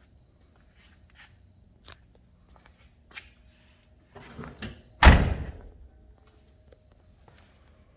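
A 1984 Nissan 720 King Cab pickup door slammed shut once, about five seconds in, after some faint shuffling and small clicks.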